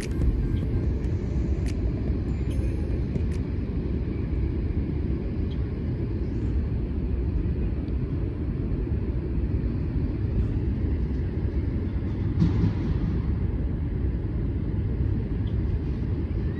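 Steady low rumble of outdoor ambience, with a few faint ticks in the first few seconds.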